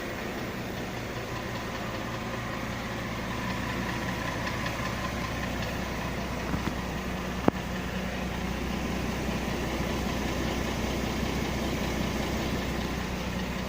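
Mercedes-Benz ML350 V6 engine idling steadily, with the knock that has newly appeared in it, which worries the owner. A single sharp click about halfway through.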